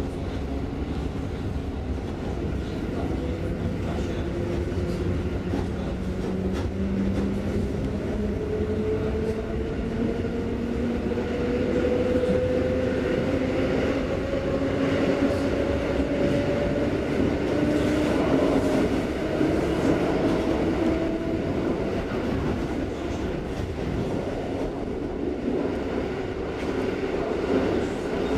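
A passenger train heard from inside the carriage as it pulls out of a station and gathers speed: a motor whine climbs slowly in pitch for most of the time, over a steady rumble of wheels on the rails.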